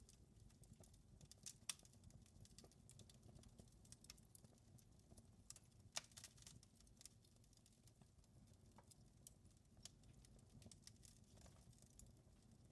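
Wood fire crackling in a fireplace: faint, irregular small crackles and snaps, with two louder pops about two seconds in and about six seconds in, over a faint low rumble.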